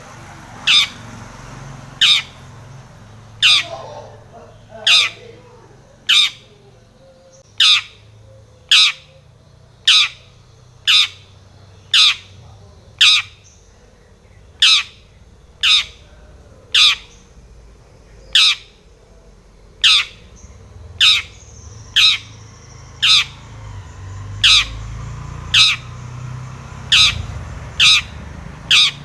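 Long-tailed shrike giving a short, harsh, scratchy call, each note sweeping downward. The call repeats steadily about once a second.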